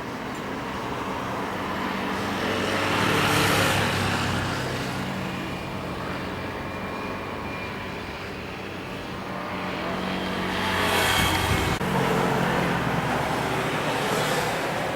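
Vehicle engine noise over a steady low hum, swelling and fading twice, loudest about three seconds in and again about eleven seconds in.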